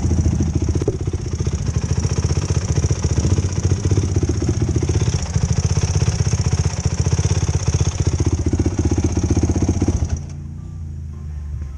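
Yamaha YFZ450 quad's single-cylinder four-stroke engine running on the throttle with rapid firing pulses. About ten seconds in it drops suddenly to a quieter, steady idle.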